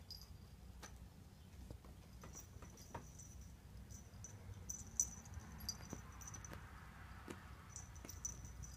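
Kittens scampering about on the floor: faint, scattered clicks and taps of paws and claws, with a few brief high-pitched squeaks mixed in.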